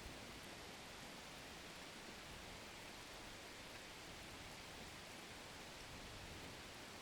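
Faint, steady hiss of rain: an even wash of noise with no distinct drops, calls or changes.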